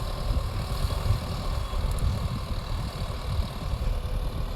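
Sonalika Tiger 65 DI CRDi tractor's common-rail diesel engine running steadily as a low, continuous rumble.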